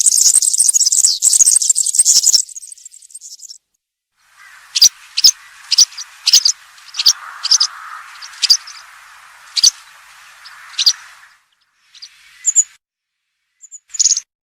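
European serin singing its rapid, jingling high twitter for about two seconds, then breaking off. After a pause, a series of single sharp high chirps, about two a second, comes over a steady background hiss for several seconds, followed by a few short twittering bursts near the end.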